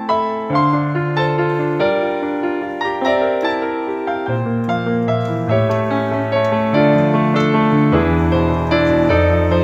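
Background piano music, a flowing melody of struck notes over changing bass notes.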